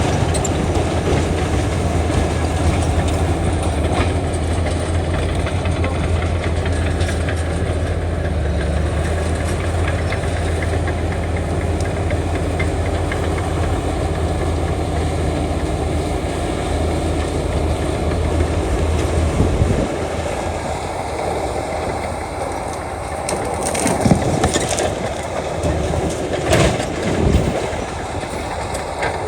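Heavy diesel earthmoving machinery running under load, a steady low engine drone with track or metal clatter. About two-thirds of the way in the engine note drops, and a few short clanks and scrapes follow near the end.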